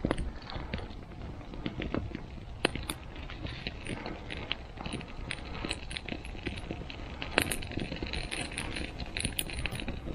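A freshly lit campfire of birch bark and thin wood shavings crackling, with irregular sharp pops and clicks over a low hiss as the damp kindling catches.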